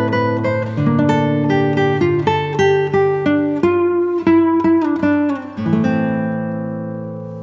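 Background music of acoustic guitar picking quick single notes over bass notes, then settling about five and a half seconds in on a chord that rings and slowly fades.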